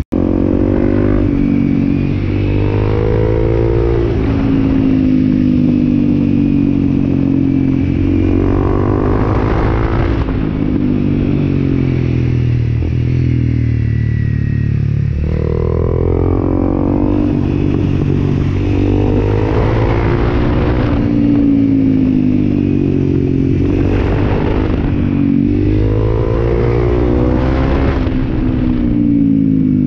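Honda CRF250L's single-cylinder engine riding hard through a run of tight curves, its note repeatedly falling as the throttle closes and climbing again on acceleration, every few seconds.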